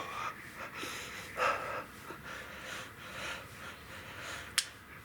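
A man breathing hard, in and out, from the exertion of pedalling a bike workout. A single sharp click sounds near the end.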